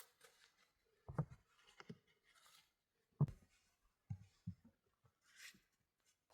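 A few irregular dull knocks and thuds, the loudest about three seconds in, followed by a brief soft hiss near the end.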